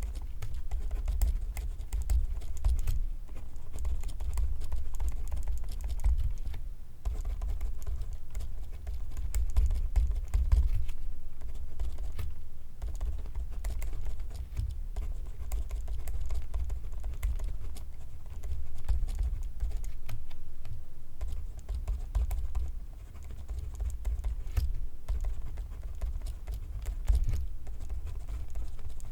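Pencil writing on paper, close to the microphone: a continuous run of quick, uneven scratches and taps.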